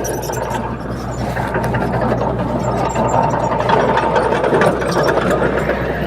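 Bulldozer diesel engine running steadily, with faint mechanical clatter over it.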